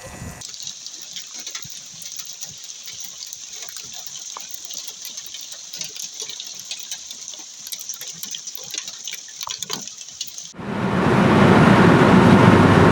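A steady hiss with faint scattered ticks. About ten and a half seconds in, it cuts suddenly to loud, even car driving noise.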